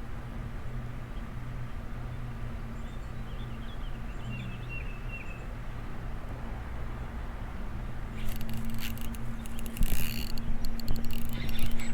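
Steady low background rumble with a few short bird chirps about four seconds in. From about eight seconds in, a rapid, dense clicking with a faint steady whine under it, typical of a baitcasting reel being cranked to retrieve a lure, louder toward the end.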